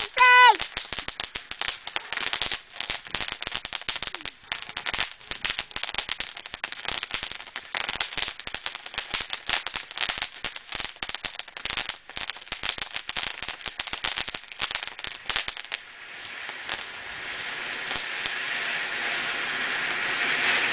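Fireworks crackling: a dense, rapid string of small pops for most of the time, opening with a brief warbling high tone. About 16 seconds in, it gives way to a steady hiss that grows gradually louder.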